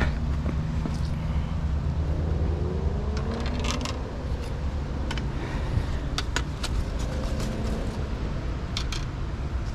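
Steady low engine rumble with a drone that rises and falls twice, and scattered light clicks and rattles.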